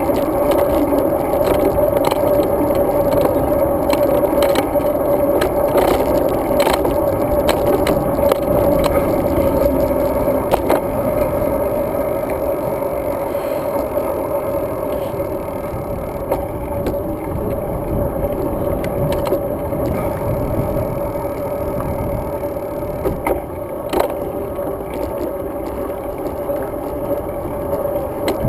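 Road bicycle being ridden: steady tyre and wind noise with scattered knocks and rattles from bumps in the surface. It is a little quieter in the second half.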